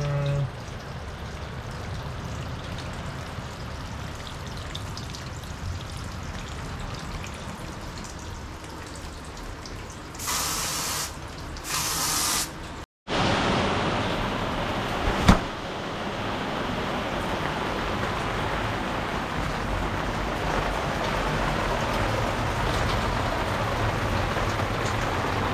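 Rain falling steadily, with two short surges of hiss about ten seconds in. After a brief cut to silence about halfway, the rain is louder, with one sharp tap a couple of seconds later.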